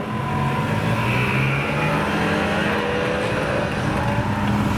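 Car engine running hard under acceleration, its pitch climbing slowly after a brief dip at the start.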